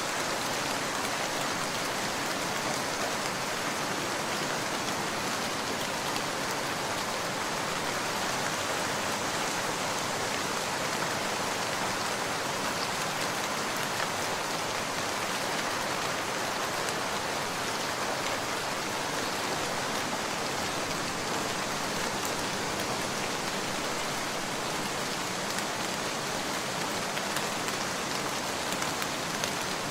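Steady rain: an even hiss of rainfall with the patter of individual drops, unchanging throughout.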